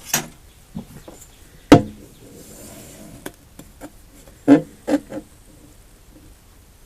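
A single sharp knock, then a quick group of three clunks from parts being handled during work on the engine's gas tank, with a few fainter taps in between.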